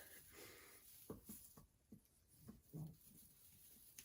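Near silence, broken by a handful of faint short knocks and rustles, the clearest about a second in and just before the three-second mark.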